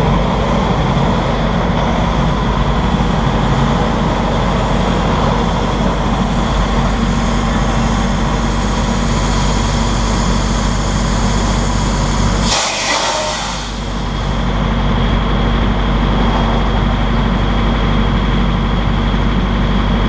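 Heavy vehicle running steadily: a low engine drone with road noise. About twelve seconds in, the drone dips for a moment under a brief hiss, then comes back.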